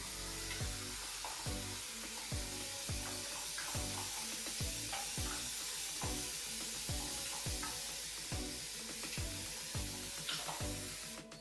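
Water mister spray bottle spraying a continuous fine mist onto the back of the hair, a steady hiss that cuts off just before the end, over background music with a steady beat.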